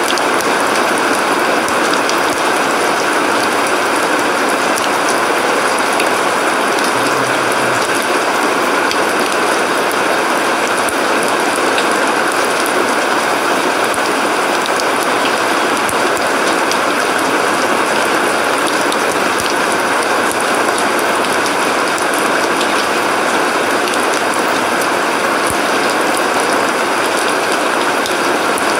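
Heavy rain pouring steadily onto a paved courtyard and plants: a dense, even hiss flecked with many small ticks of drops.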